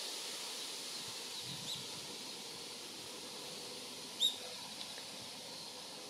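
Two short, sharp bird calls over a steady outdoor hiss: a faint one just under two seconds in and a louder one a little after four seconds.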